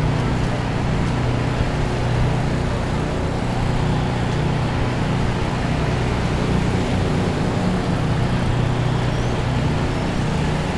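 Motor vehicle engine running steadily, a low even hum with a steady rushing noise over it.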